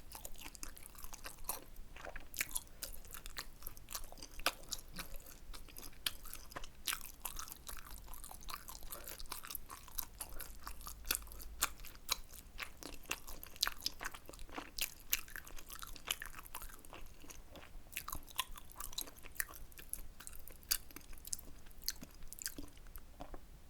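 Close-miked chewing of tteokbokki rice cakes: a dense run of short, sharp mouth clicks, several a second.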